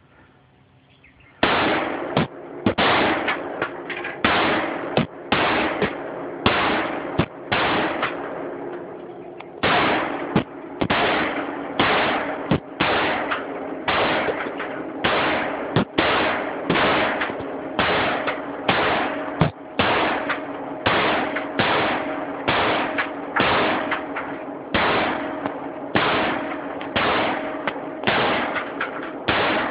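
Firearm shots fired in a steady series while plinking, one every second or less, each shot trailing off in echo. The shooting starts about a second and a half in and pauses briefly about a third of the way through.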